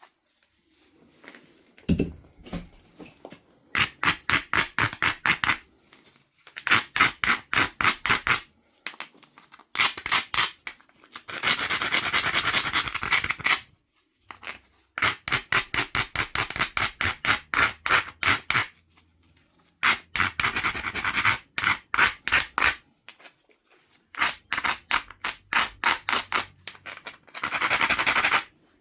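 Abrading stone being rubbed back and forth along the edge of a Knife River flint biface, grinding the platforms before flaking. Quick scraping strokes, several a second, come in runs of one to three seconds with short pauses between.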